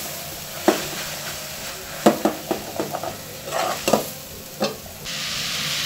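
Chopped greens and tomatoes sizzling in a metal pot as they are stirred with a long spoon, which knocks and scrapes against the pot several times. Near the end the sizzling suddenly gets louder.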